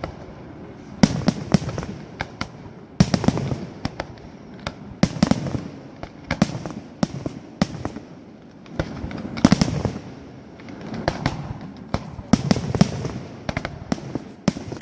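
Fireworks display: shells bursting in repeated sharp bangs with crackling after them, coming in clusters every second or two.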